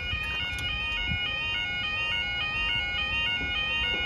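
Level crossing audible warning alarm sounding: a two-tone yodel that steps up and down in pitch a few times a second without a break.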